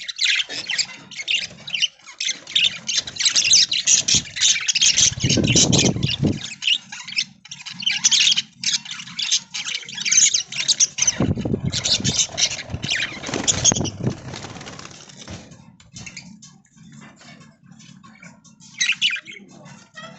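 A flock of budgerigars chattering and squawking, with two flurries of wing-flapping. The chatter thins out to scattered chirps in the last few seconds.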